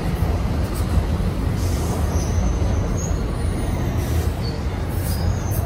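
NJ Transit electric commuter train rolling through the station: a steady low rumble of wheels on rail, with faint high-pitched wheel squeal a few times.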